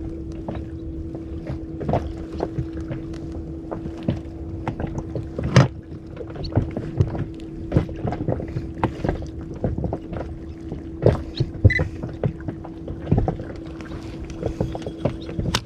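Water slapping against the hull of a small inflatable boat drifting at sea, with irregular knocks and splashes. A steady hum runs underneath.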